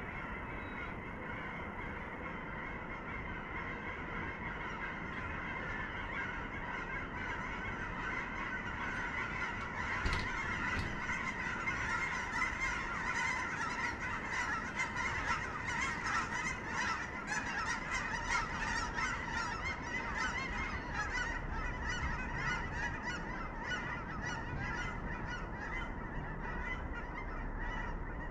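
A flock of geese honking continuously in flight, the many overlapping calls growing louder from about ten seconds in as the flock passes over. There is a brief sharp knock about ten seconds in.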